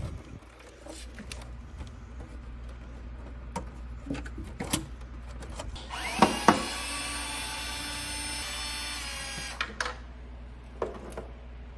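Electric drill or screwdriver motor running steadily for about three and a half seconds in the middle, starting with two sharp clicks, amid scattered clicks and knocks of parts being handled during a TV teardown.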